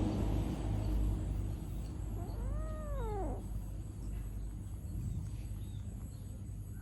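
A single drawn-out animal call, about a second long, rising and then falling in pitch, over a steady low rumble.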